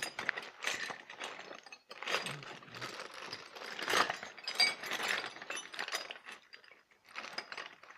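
Ratcheting socket wrench with a 13 mm socket clicking in bursts as a bolt is worked loose, mixed with metal clinks from the tool.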